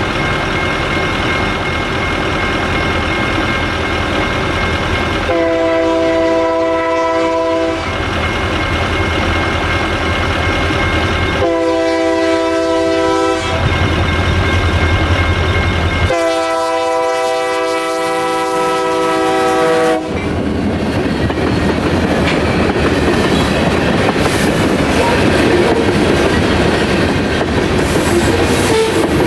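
A freight locomotive's multi-chime air horn sounds three long blasts while a crossing bell rings. After the last blast the train rolls through the crossing, its wheels clattering over the rail joints.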